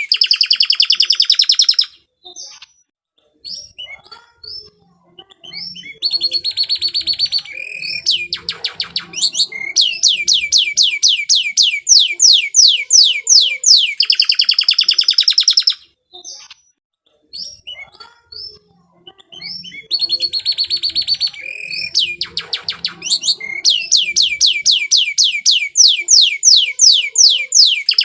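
Domestic canary singing: long, high trills of quickly falling notes repeated about five a second, with short sustained phrases between them. Twice the song breaks off for a few seconds, leaving only scattered short chirps, before the trills resume.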